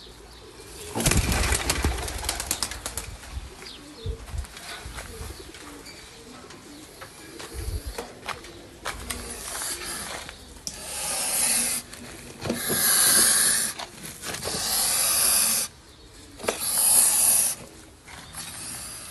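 Pigeons cooing softly, with a loud clattering burst about a second in and four loud rushing bursts of about a second each in the second half.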